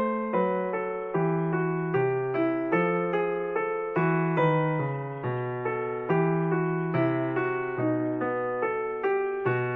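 Piano music: a slow melody of single struck notes, about two or three a second, each note fading after it is played.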